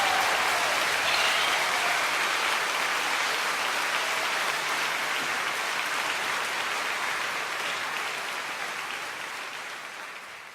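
Audience applauding after the music ends, a dense steady clatter of clapping that fades out near the end.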